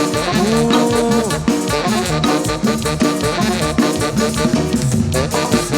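Live tropical dance band playing, with horns holding and sliding notes over a steady, driving percussion beat.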